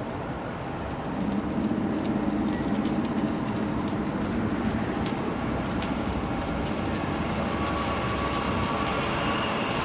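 A train passing close by, its running noise swelling about a second in and then holding steady. From about seven seconds in, a steady whine joins it.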